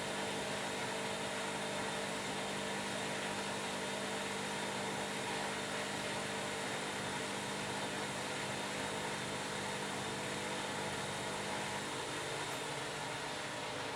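Washing machine running, a steady motor hum and whine over a rushing noise; one low tone in the hum drops out about twelve seconds in.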